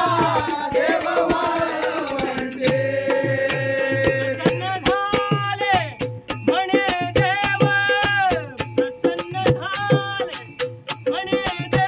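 Marathi devotional bhajan music, an instrumental passage without singing: a pitched melody line rising and falling in phrases over a steady rhythmic percussion beat.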